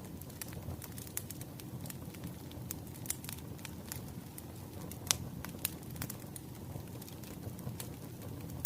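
Wood fire crackling: a steady low rumble of burning with frequent irregular sharp pops and snaps, the loudest pop about halfway through.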